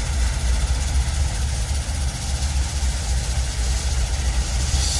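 Diesel locomotive engines running with a steady low rumble as a train moves off.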